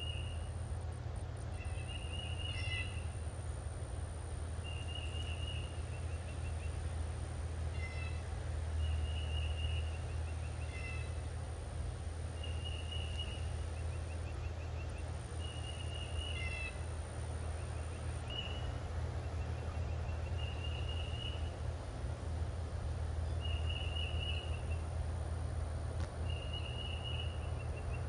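Backyard ambience: a bird repeats a short high call about every two seconds while another bird chirps now and then, over a steady low rumble.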